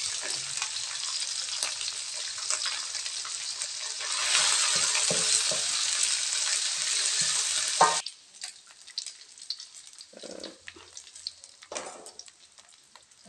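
Oil sizzling in a wok as small pieces of food fry, with a wooden spoon stirring and scraping the pan. The sizzle grows louder about four seconds in and cuts off suddenly about eight seconds in, leaving only faint scattered ticks.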